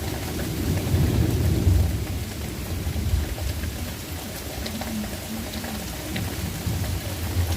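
Thunder rumbling, loudest about one to two seconds in, then settling, over steady rain with scattered drops hitting nearby.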